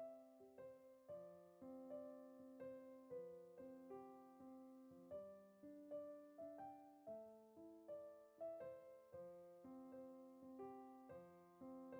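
Quiet background music: soft piano notes played at an unhurried, even pace.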